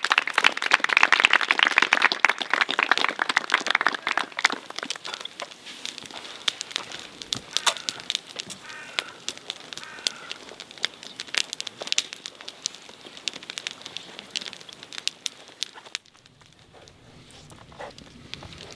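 A small group clapping, dense for the first few seconds and then thinning out to scattered claps, with crackling, probably from the campfire, carrying on underneath. The sound drops suddenly to a quieter background a couple of seconds before the end.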